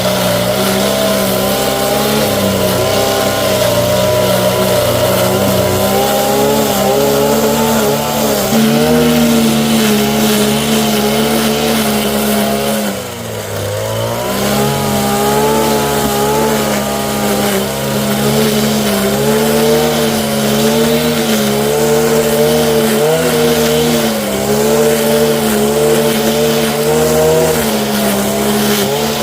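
An engine running steadily under load, its pitch wavering a little. About 13 seconds in it briefly bogs down, then picks back up.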